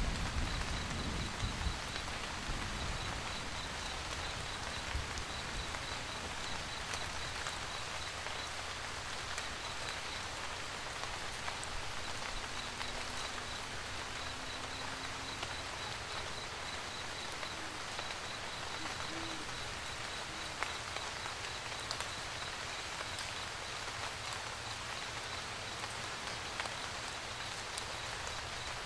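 Steady rain pattering on a roof, with scattered individual drops. A low rumble dies away in the first couple of seconds, and a faint, rapid high-pitched ticking comes and goes throughout.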